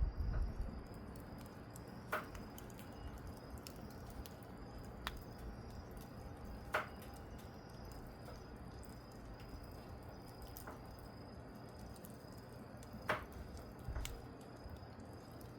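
Wood fire burning, with a few sharp, isolated pops and crackles a second or more apart over a low, steady background rumble.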